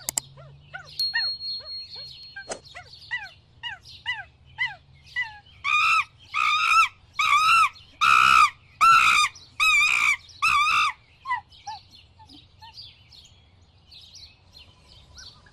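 Wild bird calls: a run of short falling chirps, then a series of louder, drawn-out repeated calls about two a second, fading to faint twittering near the end.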